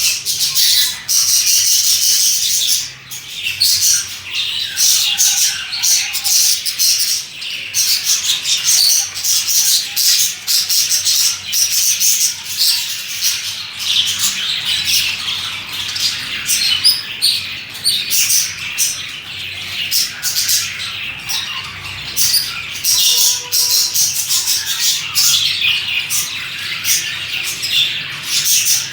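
Several budgerigars chirping and chattering continuously, a dense mix of rapid high twitters, warbles and short squawks.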